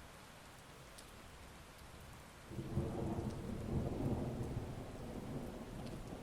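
Steady heavy rain, then a roll of thunder that breaks in suddenly about two and a half seconds in, a deep rumble that peaks and slowly dies away under the rain.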